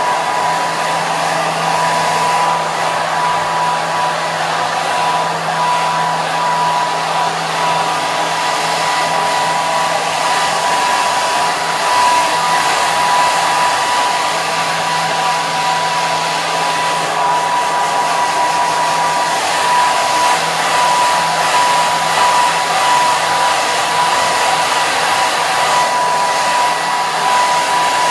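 Hair dryer running continuously: a steady rush of blown air with a high motor whine held on one pitch.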